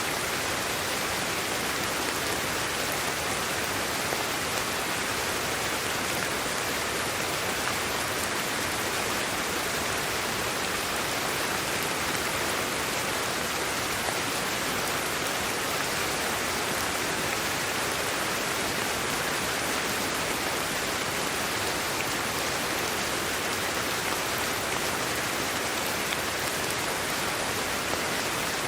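Steady sleep-aid white noise: an even, unbroken hiss spread across low to high pitches, with no changes or separate events.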